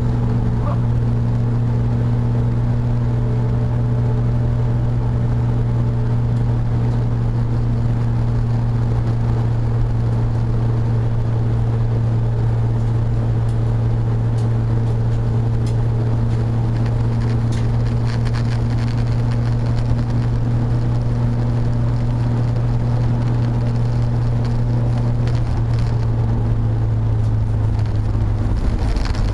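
Saloon race car's engine heard from inside the cockpit, holding a steady note with no gear changes, then dropping slightly in pitch near the end.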